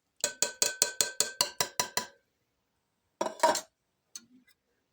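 A metal can of stewed tomatoes ringing under about ten quick, even metallic clicks, roughly five a second, followed by a short scraping rustle about three and a half seconds in.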